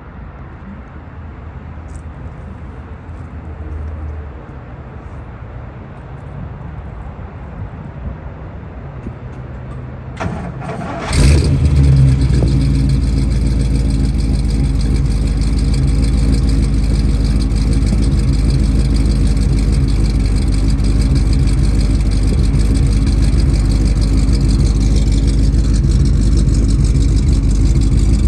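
Factory-supercharged V8 of a 1964 Studebaker Avanti on a cold start: after about ten seconds of quiet, the starter cranks briefly, the engine catches about eleven seconds in, and it then runs steadily at a loud, even idle.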